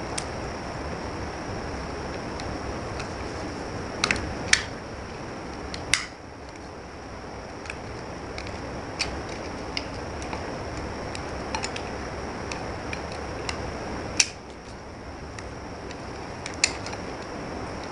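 A knife cutting into a bar of soap: scattered sharp cracks and clicks, a few loud ones and many softer ticks, over a steady hiss.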